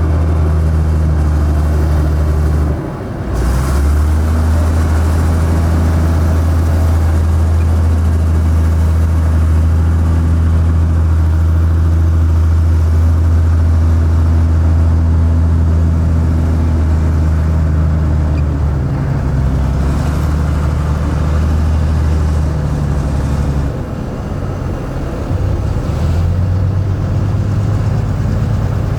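Heavy diesel engine of a construction machine running hard, a steady low drone that briefly dips about three seconds in and shifts in pitch a few times later on.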